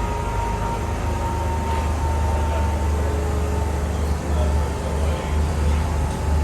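MTR electric multiple unit (set A117/A120) running, a steady low rumble with a faint motor whine that drifts slightly lower in pitch; from about four seconds in the low rumble turns uneven and pulsing.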